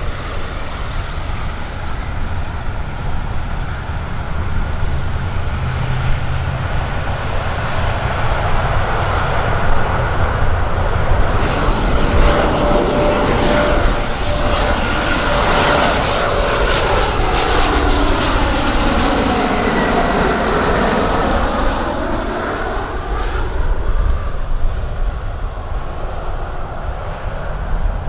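Aircraft engines passing close by, a steady loud drone that sweeps in pitch with a phasing swirl as the plane goes over and away.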